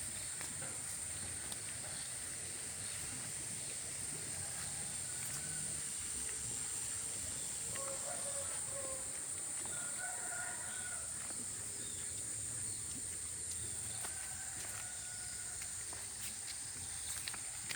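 A rooster crowing faintly a few times, over a steady high-pitched whine and a low rushing background.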